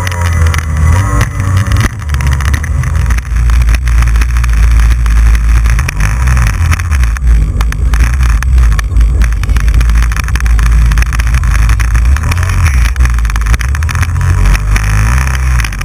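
Jet ski running under way, a loud, continuous low rumble of engine and hull on the water.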